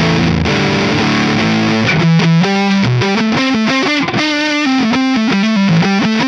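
Electric guitar played through a Neural DSP Mesa Boogie Mark IIC+ amp model on a distorted preset. A held chord comes first, then a quick single-note lead line from about two seconds in.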